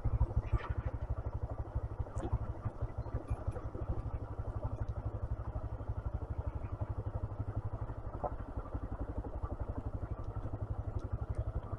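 125cc motorcycle engine running steadily at low revs, its firing heard as an even train of rapid low pulses.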